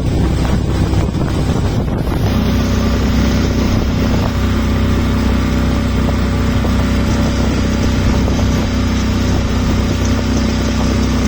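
Motorboat engine running steadily, a constant low hum; about two seconds in a steady hiss joins it.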